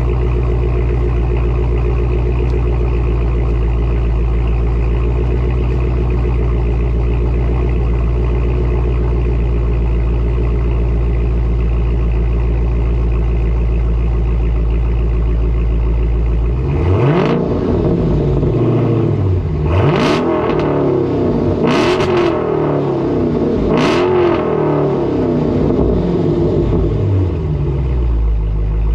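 Dodge Challenger Scat Pack's 6.4-litre HEMI V8 through an exhaust with the mid muffler and resonators deleted, idling steadily, then blipped in several quick revs from about halfway through before dropping back to idle near the end. The sound is loud but, in the tuner's words, not obnoxious.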